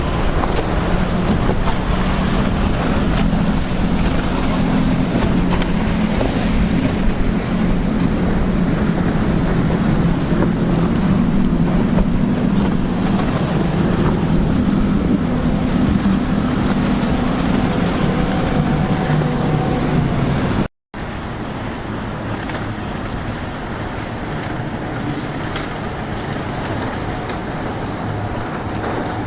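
Motorboat engines running steadily through the inlet over a constant wash of wind and water. The drone cuts off abruptly about two-thirds of the way through, and a weaker engine sound follows.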